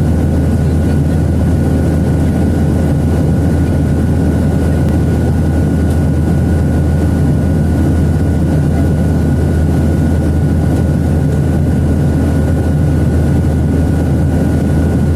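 Airliner cabin noise in flight: the engines and airflow give a deep, steady rumble with a faint, steady high whine above it.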